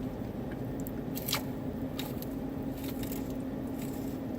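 A man chewing a bite of quesadilla, with a few short, sharp clicks of eating scattered through it, over a steady low hum.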